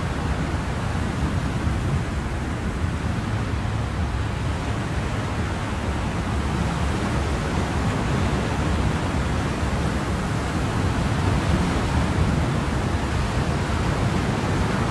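Ocean surf: a steady, even wash of waves with no individual breakers standing out.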